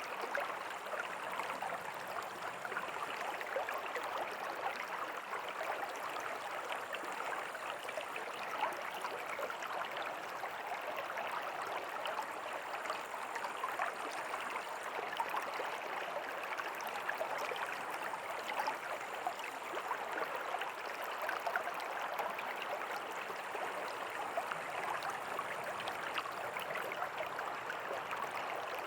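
River water flowing steadily: a continuous, even rush of running water.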